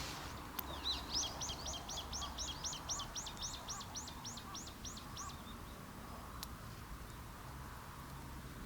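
A bird calling a rapid series of about eighteen repeated high chirps, roughly four a second, that stops about five seconds in, over steady low background noise.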